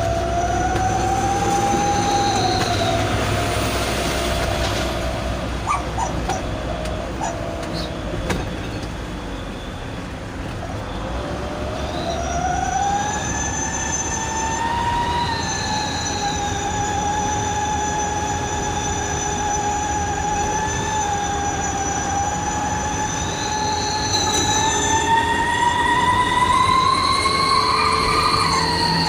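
Truck 'wolf' whistle exhaust (knalpot serigala) howling at speed: a steady whistling tone with overtones over the engine's rumble. The tone sags and fades over the first ten seconds, comes back about eleven seconds in, and rises in pitch near the end as the engine speeds up.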